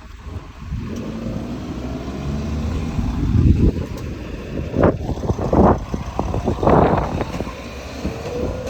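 Train passing: a low rumble that builds from about a second in, with a run of louder surges in the second half.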